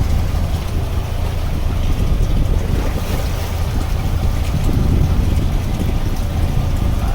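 Wind buffeting the microphone over a steady low rumble aboard a small fishing boat at sea.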